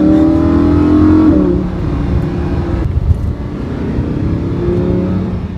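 Lamborghini Huracán LP 610-4's V10 engine heard from inside the cabin, pulling with a slowly rising note for about a second and a half, then dropping away and running quieter. Near the end the note climbs again.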